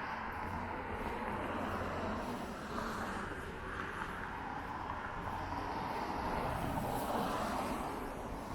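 Traffic on rain-wet city streets: a steady hiss of tyres on wet pavement, swelling as a vehicle passes near the end.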